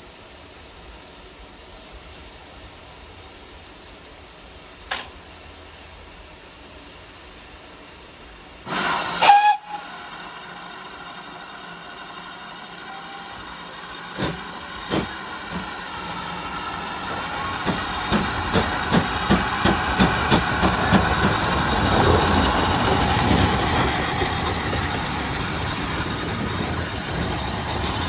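Steam locomotive, most likely ex-GWR 5600 class 0-6-2 tank engine 5619, giving a short whistle blast about nine seconds in. It then gets under way, with exhaust beats about two a second and a rising rush of steam and train noise that grows steadily louder.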